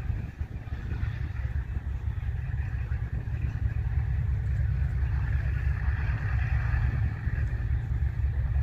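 Boeing B-29 Superfortress's four radial piston engines running with a deep, steady rumble, growing louder over the first few seconds and then holding.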